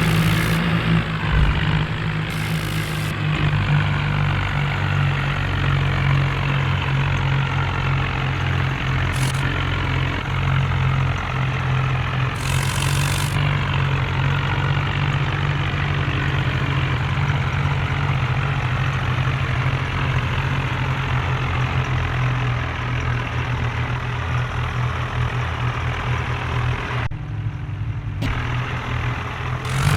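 Farm tractor diesel engines running steadily, a loud, low, heavy drone with slowly shifting pitch above it.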